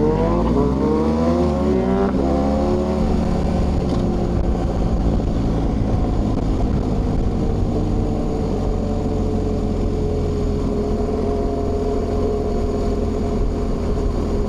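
Motorcycle engine heard on board while riding: it revs up, shifts about two seconds in, pulls up again, then holds a steady cruising note.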